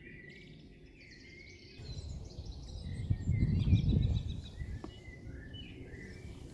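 Small birds singing and chirping, with a low rumbling noise that swells about two seconds in and fades again a few seconds later.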